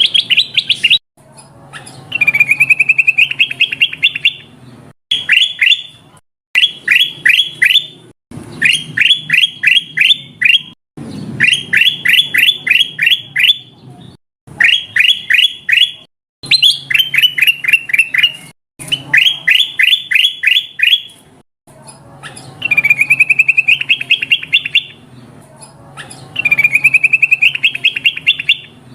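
Kutilang emas bulbul lure call, a looped birdsong recording used to attract wild birds: rapid runs of sharp, high chirps in bursts of a second or two, repeating with short gaps and abrupt breaks. A faint low hum sits underneath.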